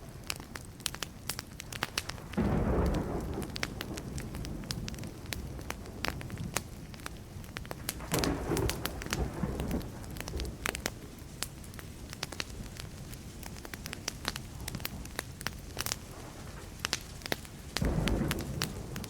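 Burning wood crackling and popping in a campfire, with distant thunder rumbling three times: once about two seconds in, again around eight seconds, and again near the end.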